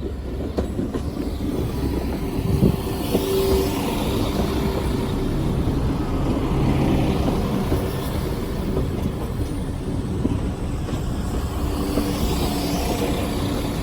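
Class 172 Turbostar diesel multiple unit drawing slowly into the platform: a steady rumble of its diesel engines and wheels on the rails, with a few faint steady tones and no clear rail joints or sharp knocks.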